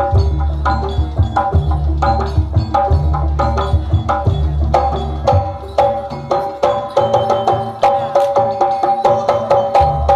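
Javanese jaranan gamelan music: fast hand-drum patterns over repeated ringing tones from pitched metal percussion. The heavy low drum drops away about halfway through while the pitched tones carry on.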